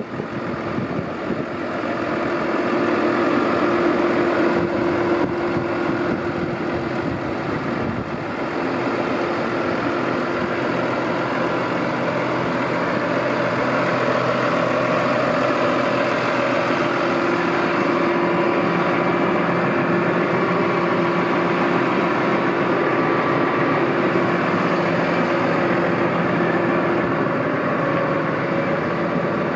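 2021 New Holland T6.180 tractor's six-cylinder diesel engine running steadily, getting louder about two seconds in and again about eight seconds in.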